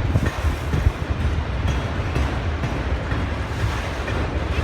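Wind buffeting the microphone over a steady low rumble from a slow-moving Norfolk Southern freight train approaching.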